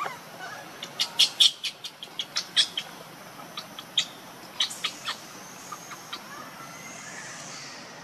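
Bird chirping: a quick, irregular series of short, high chirps, most of them packed between about one and five seconds in, then a few scattered ones.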